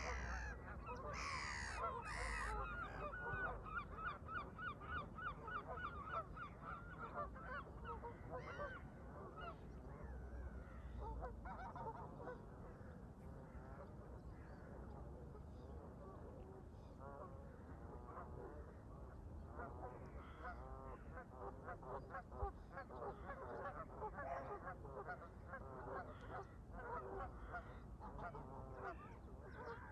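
A flock of Canada geese honking, with calls coming in quick runs of repeated honks. They are busiest in the first several seconds, thin out around the middle, and pick up again in the second half, over a low rumble.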